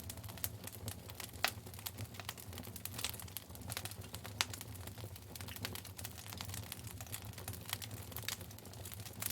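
Wood fire in a fire pit crackling: faint, irregular snaps and pops, with a sharper pop about a second and a half in.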